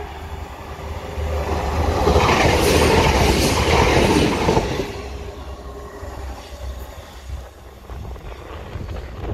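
Transport for Wales Class 175 Coradia diesel multiple unit passing close by at speed. The rush of wheels and engine builds to a loud peak about two seconds in, then fades steadily as the train draws away.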